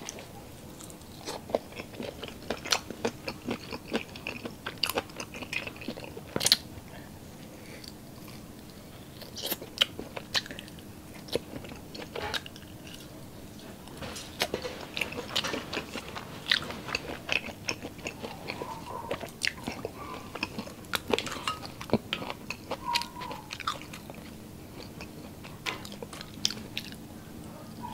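Close-miked eating of grilled skewered meat: biting it off bamboo skewers and chewing, with irregular sharp mouth clicks and crunches.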